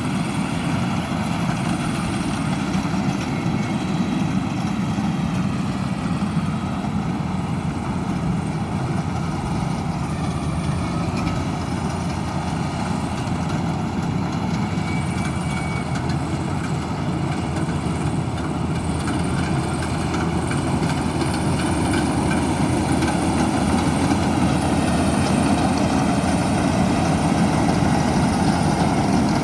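Sumo World combine harvester running steadily, its engine and machinery making a continuous drone that grows a little louder in the last third.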